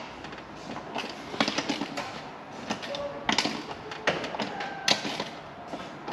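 Irregular clicks, taps and light knocks of hand tools and metal parts being handled during work on a UTV exhaust.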